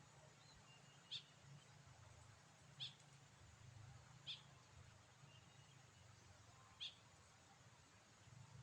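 Faint, short, sharp bird call notes, four in all, spaced about one and a half to two and a half seconds apart, typical of a sooty-headed bulbul (kutilang) calling.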